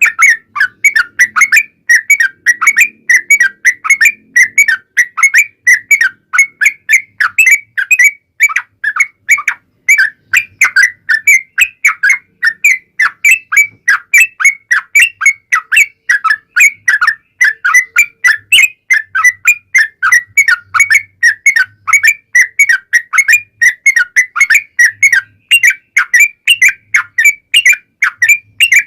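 Yellow-vented bulbul (trucukan) singing a long, unbroken run of quick, clear whistled notes, about three to four a second without a pause: the 'ropel panjang' rapid song that bird keepers play to set other bulbuls singing.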